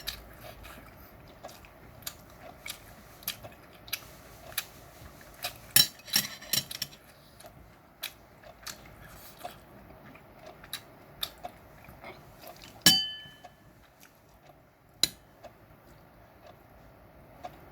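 Close-up chewing of chewy meat, with many small wet clicks and smacks of the mouth. About two-thirds of the way through comes one sharp, ringing clink of cutlery against a dish.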